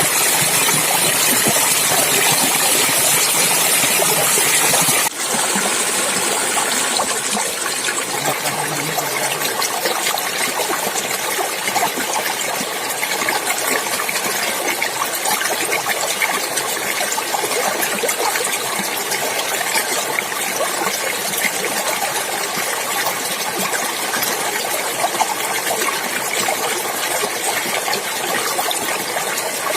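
Clear water running and splashing in a wild stream, a steady rush. There is a brief break about five seconds in, after which the sound is a little less hissy.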